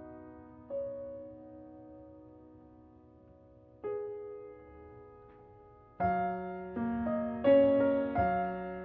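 Gentle solo piano background music: slow, sparse chords left to ring, then a busier run of chords over the last few seconds.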